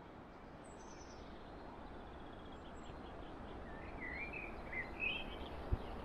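Faint outdoor background hiss that slowly grows louder, with a small songbird giving a few short warbling chirps in the second half.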